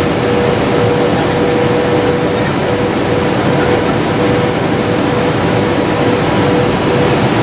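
Steady airliner cabin noise: jet engines and rushing air, loud and unbroken, with a steady tone held at one pitch.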